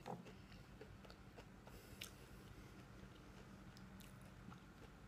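Quiet chewing of fried food, with a few soft mouth clicks, the clearest just after the start and about two seconds in.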